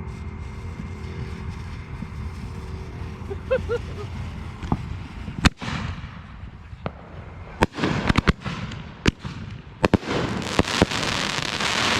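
Consumer fireworks going off: scattered sharp bangs from about halfway in, coming thick and fast later, then a dense crackle building up toward the end.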